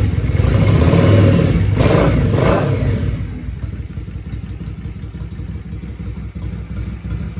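Yamaha XV535 Virago's air-cooled V-twin through a Highway Hawk aftermarket exhaust, revved with two quick throttle blips, then dropping back to a steady idle about three seconds in.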